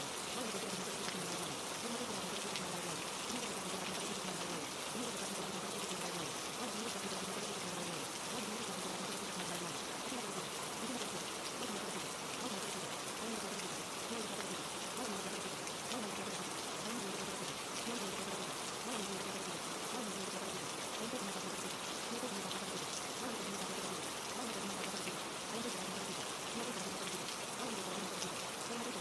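Steady rain falling, an even hiss with no breaks. Faint layered voices murmur low underneath it: subliminal affirmations mixed under the rain track.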